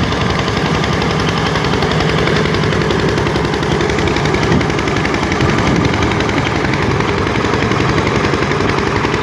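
Diesel engine of a river trawler running steadily under way, a loud, rapid, even pulsing beat.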